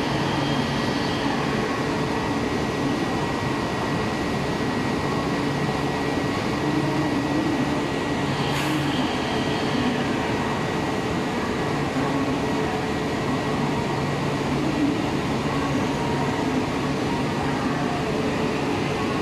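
An E4 series double-decker Shinkansen rolling slowly out along the platform: a steady rumble of wheels and running gear, with a steady high tone over it. A short hiss comes about eight and a half seconds in.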